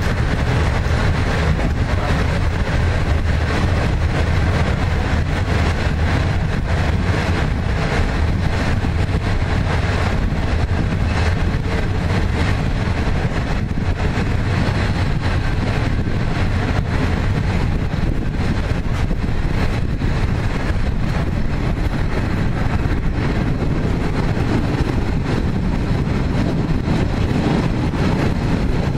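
Train running at speed, heard from inside the carriage: a steady, loud low rumble of the wheels on the track.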